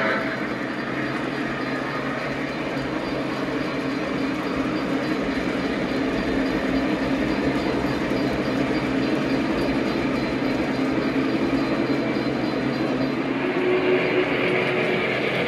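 Lionel model train running along the layout's track: a steady rumble of motor and wheels, growing slightly louder near the end.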